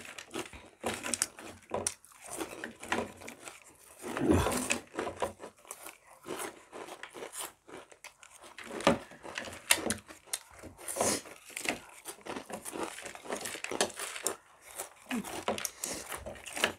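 Crunchy Kurkure corn snacks being bitten and chewed close to the microphone: irregular sharp crunches and crackles, with a louder bump about four seconds in.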